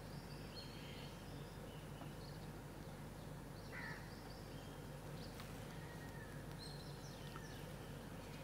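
Faint bird chirps and calls, short and scattered, over a steady low hum.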